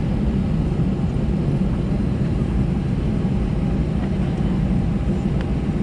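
Cabin noise of an Airbus A320-214 taxiing: a steady low rumble from its CFM56 engines and the airframe, heard from inside the cabin.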